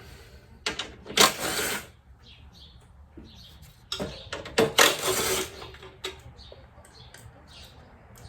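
Socket ratchet clicking in two short runs, loosening the radiator mounting bolts on a Yamaha Venture motorcycle, with light tool clinks between.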